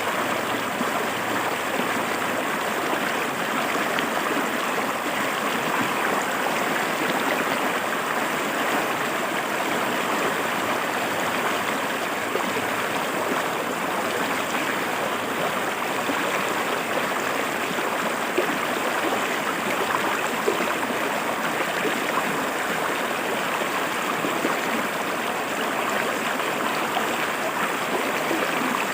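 Forest river water flowing steadily over rocks, an even rushing and splashing.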